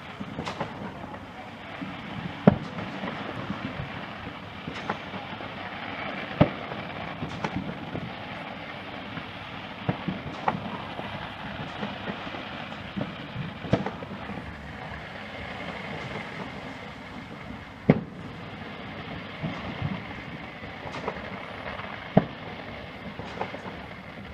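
Fireworks display: sharp bangs of shells bursting every three to four seconds, about six in all, over a steady noisy background of crackle and crowd.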